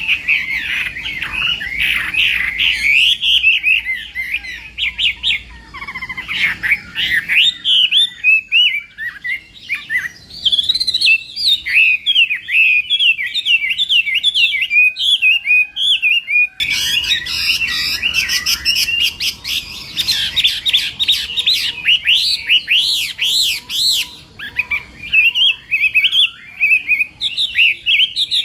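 Chinese hwamei singing a long, rapid, varied song of whistled phrases with no pause. A faint low background hum drops away about seven seconds in and returns abruptly about seventeen seconds in.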